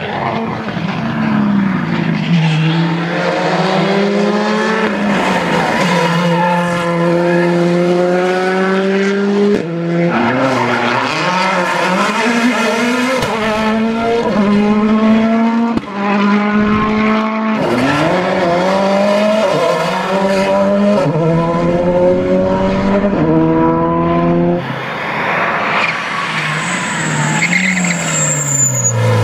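Rally cars accelerating hard one after another. Engine pitch climbs through each gear and drops at every upshift, with abrupt changes from one car to the next. Near the end a thin high whine sits above the engine.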